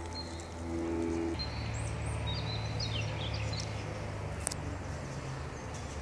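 Woodland birds chirping briefly a few times over a steady low hum, with one sharp click about two-thirds of the way through.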